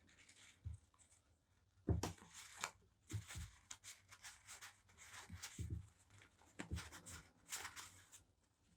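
Paper and stationery items being handled on a desk: a run of short, soft paper rustles with a few low knocks as things are set down.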